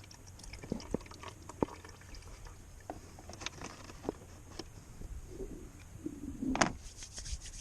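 Warm used engine oil draining from a motorcycle's open drain hole into a basin, with scattered small drips and clicks. There is one louder knock about six and a half seconds in.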